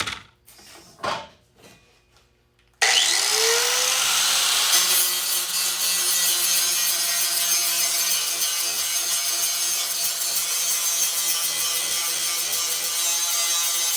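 A few light knocks, then an electric power tool switches on about three seconds in, its motor whine rising as it spins up, and runs steadily under load, cutting or grinding material.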